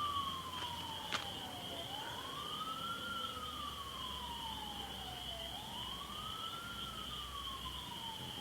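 A siren wailing: it rises quickly, then falls slowly, about every three and a half seconds, three times over. A steady high-pitched whine runs above it, and there is a single click about a second in.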